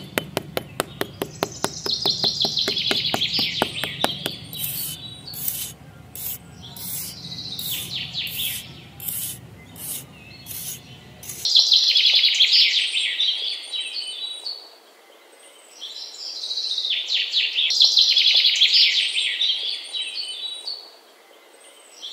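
Birds chirping and singing in repeated bouts, loudest in two long bursts in the second half. A fast run of ticks comes in the first few seconds.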